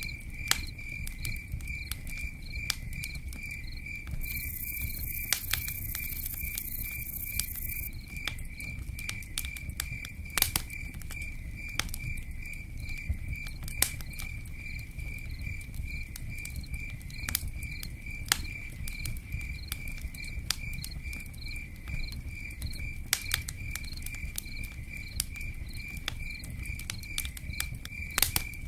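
A cricket chirping in a steady pulsing rhythm, over a low steady rumble scattered with sharp clicks and pops like a crackling campfire.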